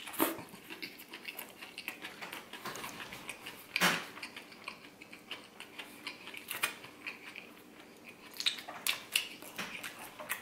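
A person biting into and chewing an oyster po' boy sandwich, heard as close-up eating sounds: many short wet clicks and crunches, with louder ones just after the start, about four seconds in and a few near the end.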